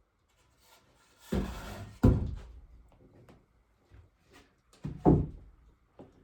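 Wooden knocks and clunks from handling or fitting pieces of wood: a brief scrape, then a sharp knock about two seconds in, a quick double knock about five seconds in, and a lighter knock near the end.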